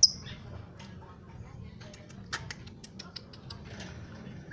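Cage birds: one sharp, high call that falls in pitch right at the start, then a quick run of dry clicks and ticks from about two to three and a half seconds in.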